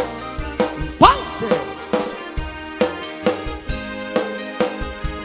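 Live band playing an instrumental passage of a country-style song: the drum kit's bass drum and snare keep a steady beat of about two strokes a second under sustained chords. About a second in, a short rising pitch slide stands out above the band.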